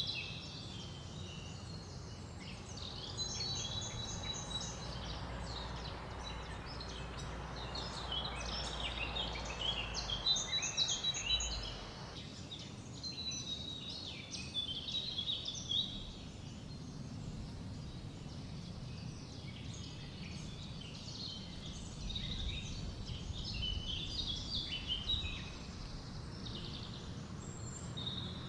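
Several forest songbirds chirping and singing, many short overlapping calls throughout, over a low, steady rumble of wind. A softer hiss under the birds swells and then cuts off abruptly about twelve seconds in.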